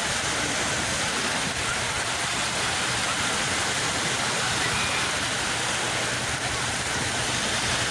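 Sea waves washing on the shore, a steady rushing surf noise.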